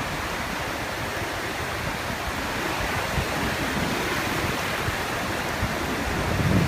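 Steady rushing noise of storm water and wind, like heavy surf or pouring spray, with a brief low swell near the end.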